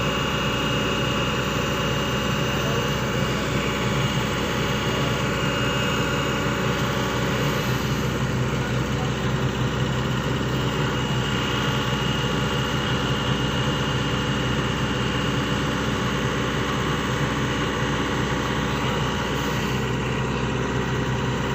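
SANY excavator's diesel engine running steadily.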